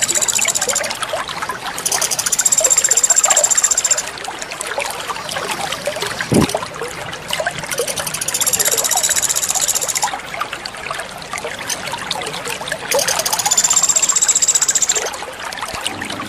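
Water trickling steadily with small splashing blips, one deeper plop about six seconds in. Over it, a high, buzzing call lasts about two seconds and repeats four times.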